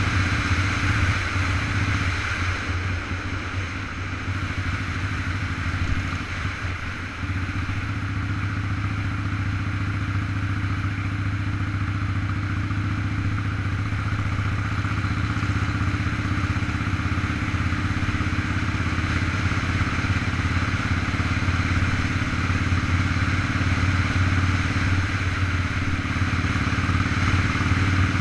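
Motorcycle engine running at a steady cruise on the road, with a steady rush of wind over the microphone; the engine note eases briefly a few seconds in, then holds steady.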